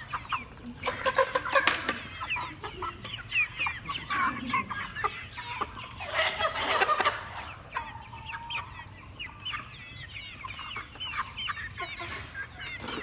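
Chickens calling: many short, high calls overlapping, with louder bursts about a second in and again around six seconds in.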